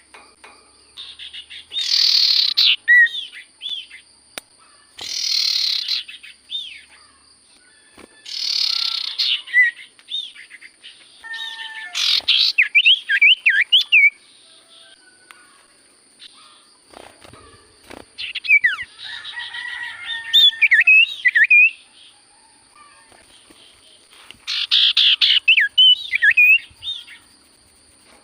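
Common iora singing: repeated short bursts of harsh, buzzy chatter alternating with clear whistled notes that slide up and down, with pauses between phrases.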